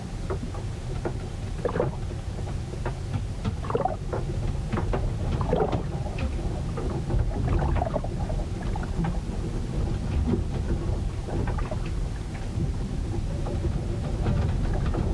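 A ship in a sea storm: a steady low rumble, with irregular splashes and knocks of water against the vessel scattered throughout.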